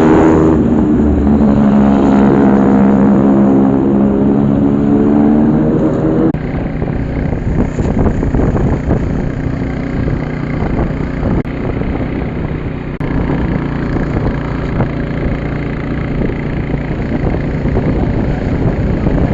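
A motor vehicle's engine running, its pitch shifting for the first six seconds and then settling into a rough, steady noise.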